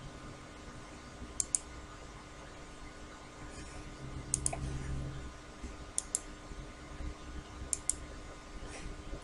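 Computer mouse clicked in quick pairs, four times, over a faint steady hum.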